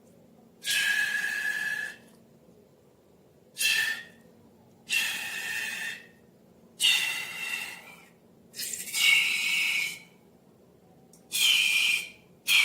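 Air escaping from balloons in a series of short hissing squeals, about seven, each with a whistling tone and separated by brief pauses.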